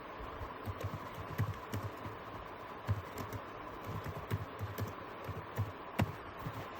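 Typing on a computer keyboard: irregular keystrokes, with one sharper click about six seconds in.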